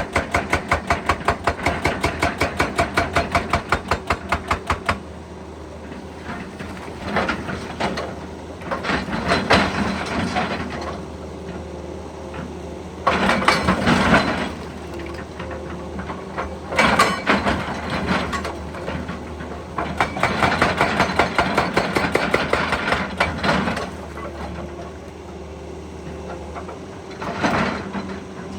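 Excavator-mounted hydraulic breaker hammering rapidly, about eight blows a second, stopping about five seconds in. After that the excavator's diesel engine runs steadily, with several louder stretches of working noise.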